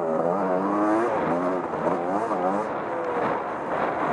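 Off-road vehicle engine revving up and down repeatedly, its pitch rising and falling every half second or so, as it is worked through mud.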